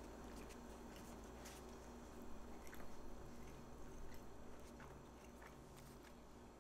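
Faint biting and chewing of a brisket slider in a soft bun, heard as scattered small clicks and crunches, over a low steady hum of room tone.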